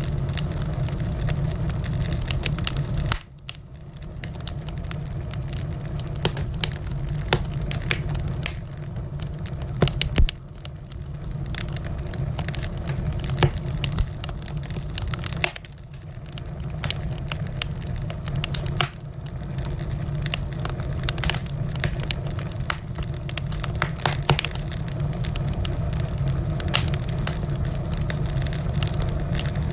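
Wood fire crackling in a fireplace: many sharp pops and snaps over a steady low rumble. The rumble drops away suddenly a few times, about three, ten and sixteen seconds in, then returns.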